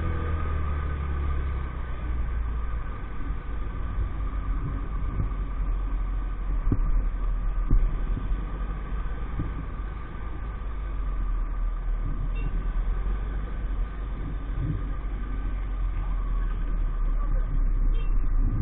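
EAYS Pro 50cc moped engine running steadily while riding, with a low hum, a steady higher whine and scattered light knocks from the road.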